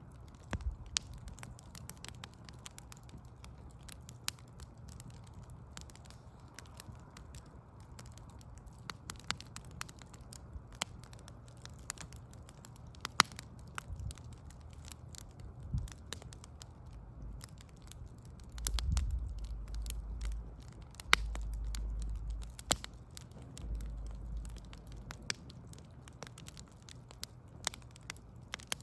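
Wood fire of burning logs crackling, with scattered sharp pops over a steady low background hum. Past the middle a deeper low rumble comes and goes three times for a few seconds.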